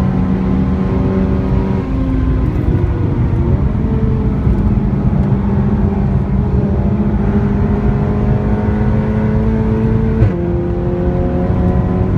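Seat Leon Cupra's engine with a loud exhaust, heard from inside the car on a hard track lap. The engine note changes about two seconds in, climbs steadily through one gear, then drops sharply at an upshift near the end.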